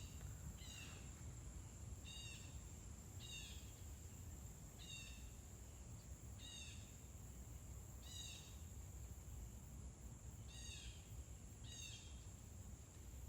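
A small songbird calling over and over: a short, high, falling call repeated every second or two. Under it is a steady high insect drone and a low background rumble.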